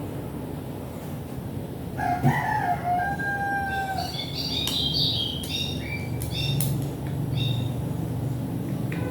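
A rooster crowing once: a long call that wavers and then holds steady for over a second. A run of short, high chirping notes follows, over a steady low background hum.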